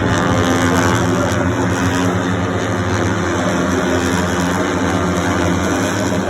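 An engine running steadily, a low drone that holds one pitch throughout.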